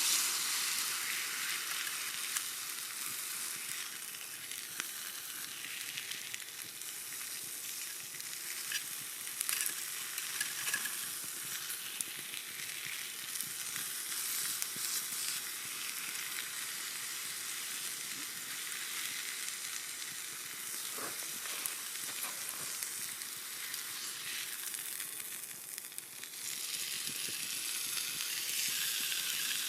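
Steak sizzling on a thick steel griddle over a campfire: a steady, crackling fry that dips briefly near the end and then comes back louder.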